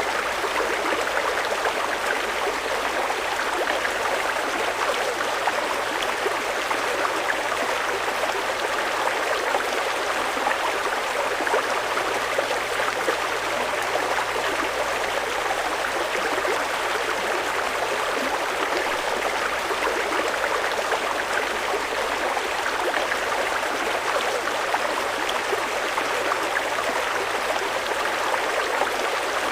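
Fast-flowing mountain river rushing over rocks, a steady, even rush of water.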